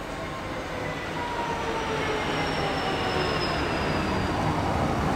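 A Freightliner Class 66 diesel locomotive passes below with its intermodal container wagons rolling along behind, the rumble growing louder. A few faint high tones slowly slide down in pitch over the steady noise of the wheels.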